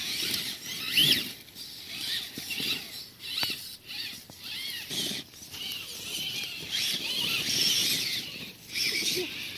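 Electric motors and gearboxes of radio-controlled scale crawler trucks whining, the pitch rising and falling with the throttle as they climb over rough ground, with a sharp tick about three and a half seconds in.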